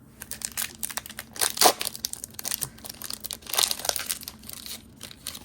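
Foil Pokémon card booster pack wrapper crinkling and being torn open by hand, in irregular crackly bursts, louder about one and a half seconds in and again around four seconds in.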